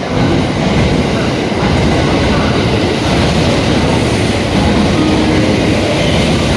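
683 series electric multiple unit limited express train pulling into the platform: a loud, steady rumble of wheels on the rails and train noise.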